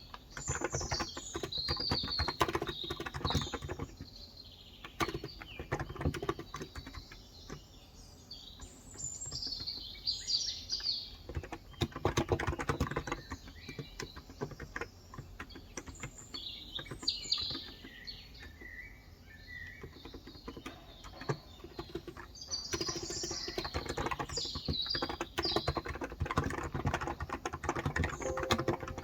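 Fast typing on a Cox Endeavor electrostatic capacitive (non-contact) keyboard with 35 g switches, in runs of keystrokes broken by short pauses. Small birds chirp now and then, in several short bursts.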